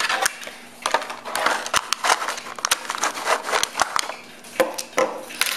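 Irregular clicks, knocks and rustling of packaging and small plastic parts being handled.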